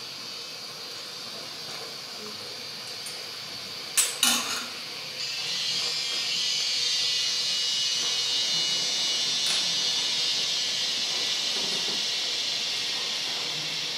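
Snails sizzling as they stir-fry in a hot stainless steel pot: a steady sizzle that grows louder about five seconds in. Just before that there are two sharp clinks of the metal spatula against the pot.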